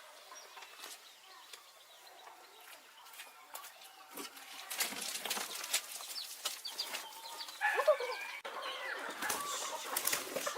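Chickens clucking, with one loud call about eight seconds in, over scattered clicks and knocks.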